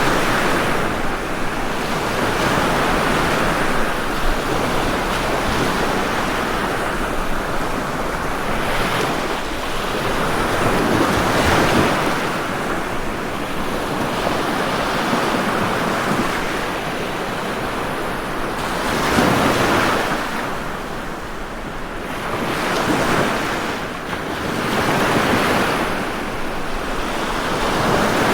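Ocean surf: waves breaking and washing up continuously, the sound swelling and easing every few seconds as each wave comes in.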